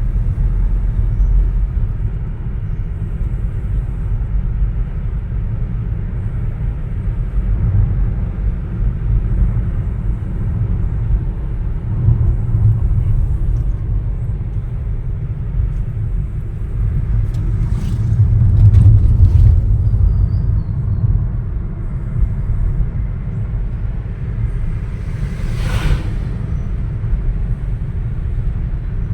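Vehicle driving along a winding ghat road: a steady, deep road and engine rumble with no speech, and a brief rushing sound near the end.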